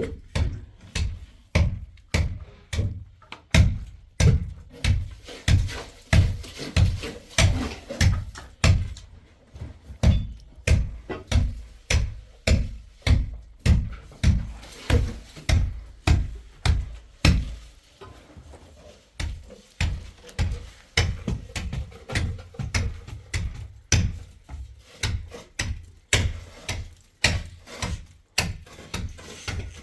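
Repeated dull thumps, about two to three a second, as of something being struck over and over, with a short quieter stretch a little past halfway.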